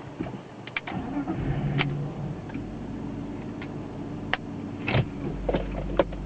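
BMW E36 320i straight-six engine starting and settling to a steady idle, with several sharp clicks.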